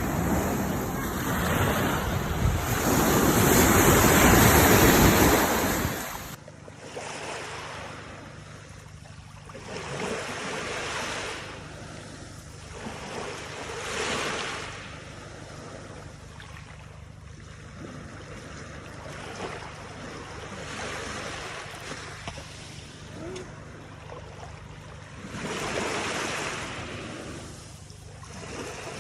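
Wind buffeting the microphone loudly for the first six seconds; after a cut, waves on the reservoir wash in quieter swells every few seconds.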